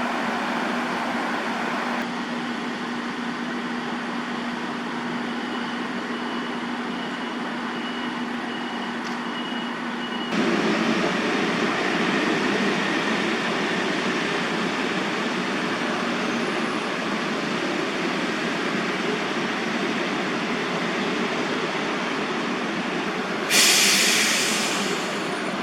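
Steady city traffic noise, a wash of passing road vehicles. There is a low hum through the first ten seconds, the noise steps up louder about ten seconds in, and a sudden loud hiss near the end fades out over a second or so.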